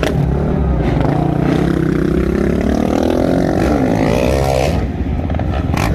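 Freestyle motocross bike's engine revving, its pitch climbing steadily for about four seconds, then wavering and dropping away about four and a half seconds in.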